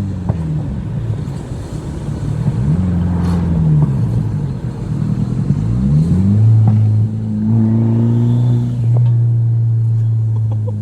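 VW 1.8T turbocharged four-cylinder with a big turbo, driven hard. Its revs climb and drop several times, as with gear changes, then hold fairly steady for the last few seconds. A boost pipe is leaking under boost.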